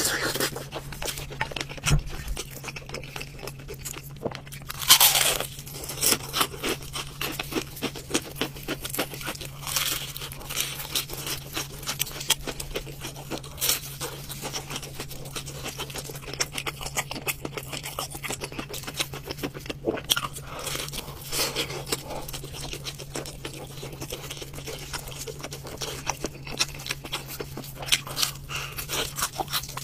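Close-miked eating of crispy fried chicken: many small crackling crunches as the batter is bitten and chewed, with tearing of the meat. It is loudest about five seconds in. A steady low hum runs underneath.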